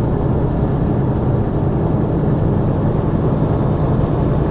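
Semi-truck's diesel engine and road noise, heard from inside the cab as a steady low drone.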